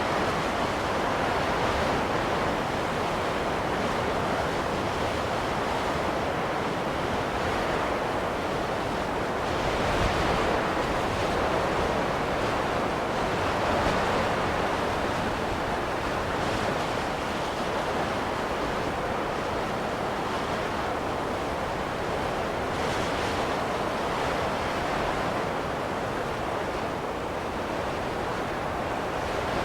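Wind blowing steadily in a rushing hiss, swelling in a few gentle gusts.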